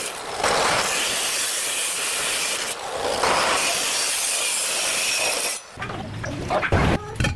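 Loud steady hissing, dipping briefly twice, that cuts off about five and a half seconds in, leaving a lower rumble.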